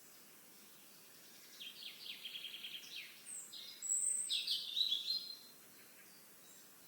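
A songbird singing one long song of rapid trilled notes, about a second and a half in, getting louder in its second half and ending after about four seconds. A faint steady outdoor hiss lies under it.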